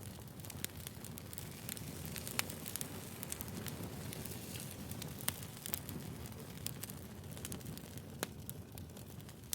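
Wood fire burning: a steady low rush with scattered sharp crackles and pops, the loudest a little past two seconds and about five seconds in.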